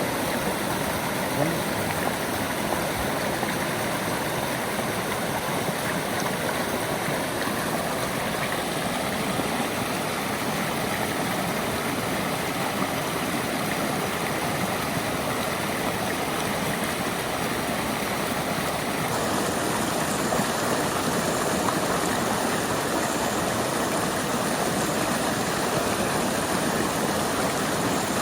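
River water rushing steadily, a little louder about two-thirds of the way in.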